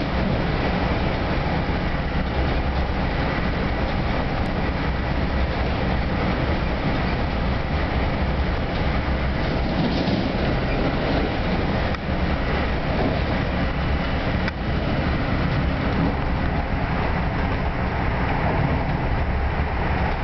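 Steady running noise of a bi-level commuter coach travelling at speed on the Northeast Corridor, wheels on rail, heard from inside the passenger cabin.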